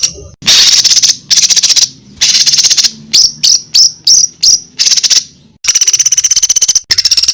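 Songbird singing loud, high-pitched rapid trills in bursts of about half a second to a second each, with a run of short falling notes about three to five seconds in.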